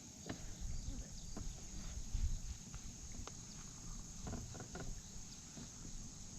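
Irregular light knocks and clicks of handling on a fishing kayak, over a low rumble.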